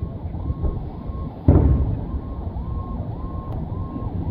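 A firework shell bursts with one deep boom about a second and a half in, its rumble dying away over the next second, over a steady low background rumble.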